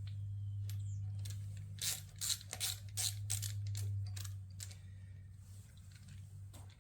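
Quick run of small metallic clicks and scrapes from a screwdriver working the battery terminal screws on a motorcycle, over a steady low hum that fades about halfway through.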